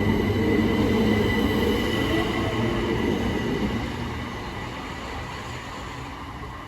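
Southeastern Class 377 Electrostar electric multiple unit departing, with wheel and running rumble under a steady high whine. The sound fades away from about four seconds in as the train leaves.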